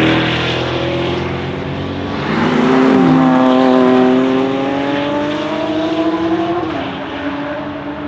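Mercedes C63 AMG Black Series' V8, with a DD exhaust, running at high revs under acceleration. About two seconds in, another car passes with a steeply falling pitch while a further engine's note climbs steadily under acceleration, then falls back near the end.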